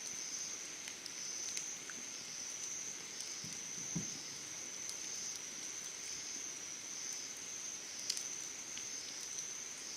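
Summer insects calling in one steady, high-pitched, unbroken trill, with scattered small crackles from a wood campfire and a single soft knock about four seconds in.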